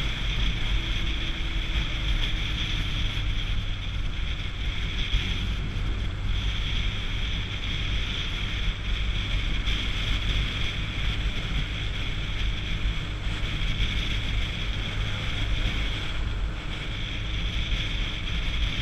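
Motorcycle engine running with steady wind rush over the microphone while riding, a high hiss dropping out briefly twice.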